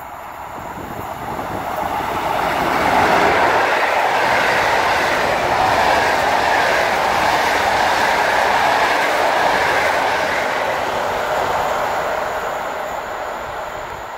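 A passenger train of coaches hauled by an electric locomotive passing at speed. The rush of wheels and coaches builds over the first few seconds, holds steady, then fades as the last coach goes by.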